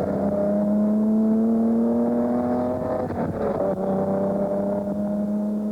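Austin-Healey sports car engine pulling under acceleration, its note climbing steadily. About three seconds in the note breaks for an upshift, then it picks up slightly lower and climbs again.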